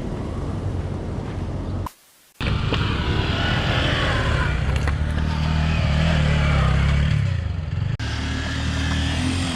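Motorcycle engine running on the move, with wind noise over it; the engine note rises and falls through the middle. The sound drops out to near silence for about half a second about two seconds in, and changes abruptly near the end.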